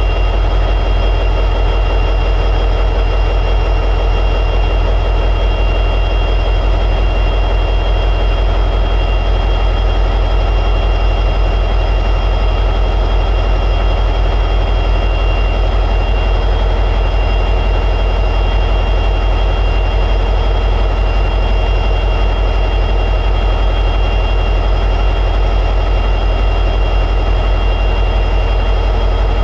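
EMD 16-710G3B two-stroke diesel prime mover of an SD60E locomotive running at high idle: a deep, even, unchanging drone with a steady high whine over it.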